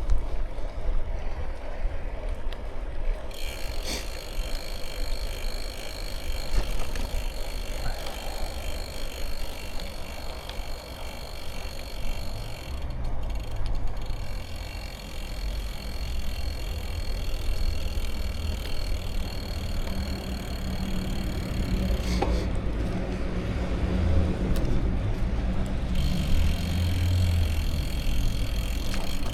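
Bicycle rolling along, with a steady low rumble from the tyres and wind. The rear hub's freewheel ratchet buzzes while the bike coasts; the buzz stops briefly around the middle and again for a few seconds near the end.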